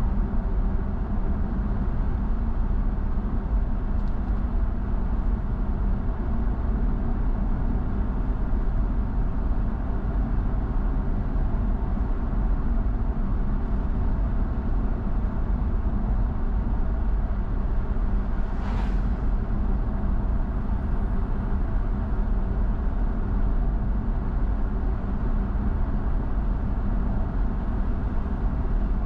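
Steady road and engine noise of a car driving, a continuous low drone with a brief hiss about two-thirds of the way in.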